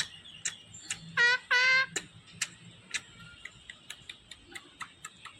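Pet parrot giving two short, loud, meow-like calls about a second in, among scattered sharp clicks.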